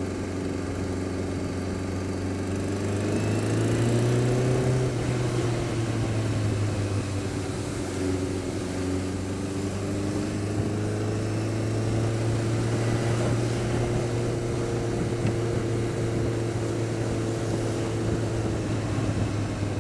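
Honda Fireblade inline-four motorcycle engine running steadily at idle, its pitch rising slightly a few seconds in and then holding. It carries the unexplained noise the owner is asking about, which is worse when cold and quietens but does not go away when warm.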